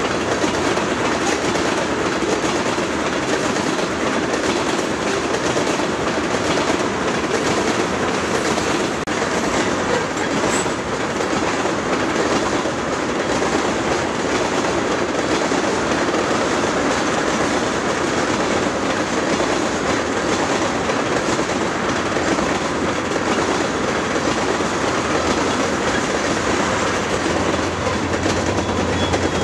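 Freight train of tank cars rolling past at close range, a steady rumble and clatter of wheels on rail. Near the end the rear diesel locomotive passes, adding a low steady engine drone.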